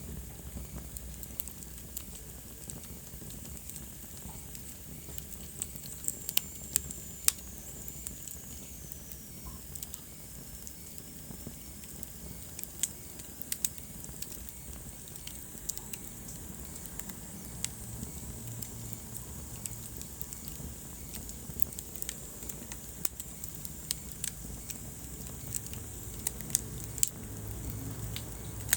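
Wood fire burning in a fireplace, crackling with sharp pops scattered irregularly over the low rumble of the flames. A faint high whistle slides down in pitch about six seconds in.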